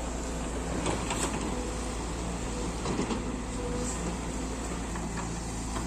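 Heavy diesel engine running steadily, with a few faint knocks and clunks over it.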